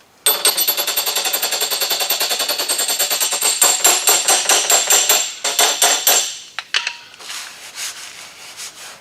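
Rapid, light hammer taps on a car door panel, one hammer striking a pointed hammer held on a high spot (two-hammer method) to knock it down, with a metallic ring. The taps come about six to seven a second and stop about six seconds in.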